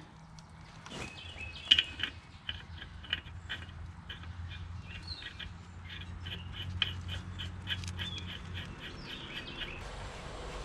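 Birds chirping: a run of short, quick chirps repeated a few times a second, over a faint steady low hum.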